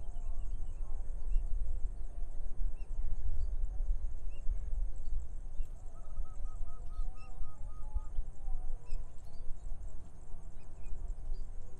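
Rice-field morning ambience: wind rumbling on the microphone, with scattered short bird chirps. About six seconds in, a bird gives a quick run of about eight short notes, about four a second, over a steady high-pitched hum.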